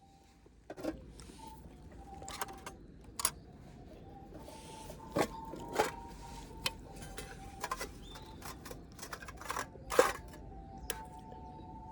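Scattered clicks and knocks of small objects being handled, about a dozen over the stretch, the loudest about ten seconds in, with faint steady tones underneath.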